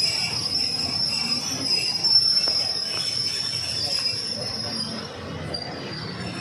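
Steel wheels of a passenger train squealing steadily against the rails over the rumble of the moving carriages; the squeal fades about five seconds in.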